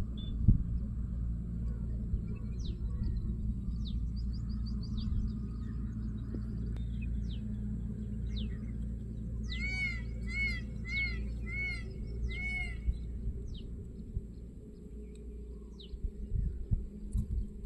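Birds calling in open country: scattered short, sharp chirps, and about ten seconds in a run of six arching calls, evenly repeated about half a second apart, all over a steady low rumble. Near the end, a few irregular low bumps.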